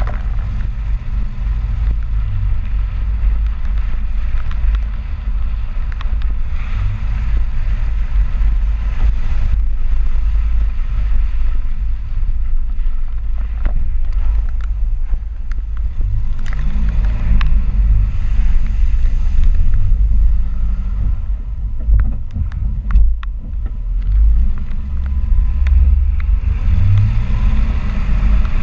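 Ford 4x4 pickup truck under way: a steady low engine and road rumble with wind noise, the engine pitch rising and falling twice, and a few sharp knocks late on.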